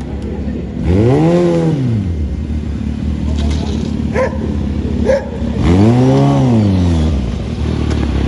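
Stunt motorcycle engine revved hard twice over a steady idle, the pitch climbing and falling back each time, about a second in and again near six seconds.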